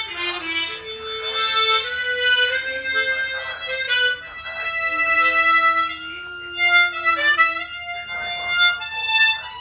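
Harmonica playing a slow melody of held notes, with several notes sounding together as chords.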